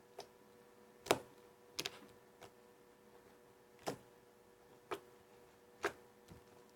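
Homemade toothpaste-and-moisturiser slime being worked by hand, giving sharp pops and clicks as trapped air bubbles burst: about eight single clicks at irregular spacing, roughly one a second.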